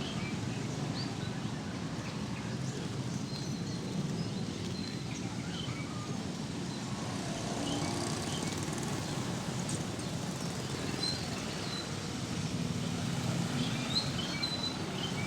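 Scattered short, high bird chirps over a steady low rumble of background noise.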